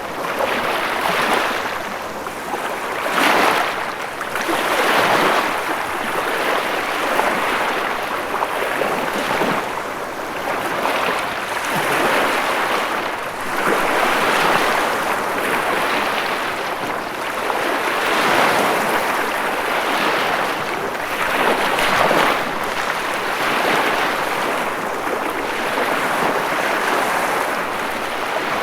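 Ocean surf: waves breaking and washing in one after another, a continuous rush of water that swells about every two seconds.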